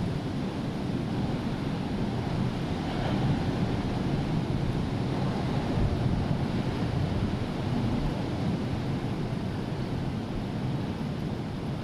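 Rough sea surf rushing and breaking in a steady wash, with wind buffeting the microphone. The wash swells about three seconds in and eases off near the end.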